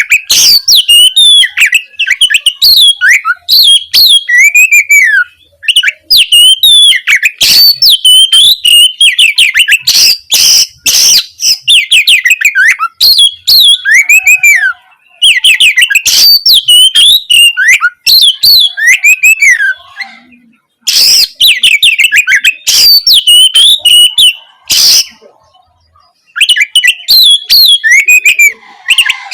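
Oriental magpie-robin (kacer) singing loudly and continuously in fast, varied phrases of sharp whistles and chattering notes, with a couple of brief pauses in the second half.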